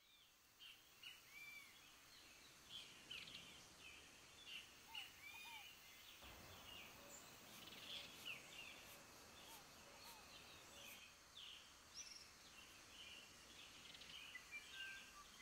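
Faint birdsong: many short chirps and whistled notes from birds, over a soft background hiss.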